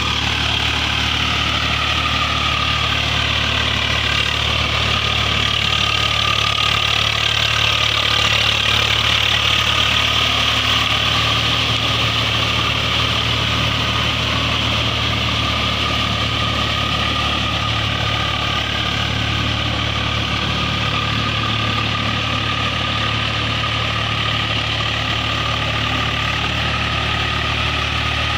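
Diesel engine of a heavy machine running steadily at a constant speed, with a strong low hum.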